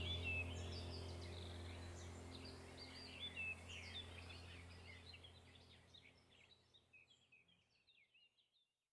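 Small birds chirping and twittering over a steady low hum, the whole fading out gradually to silence near the end.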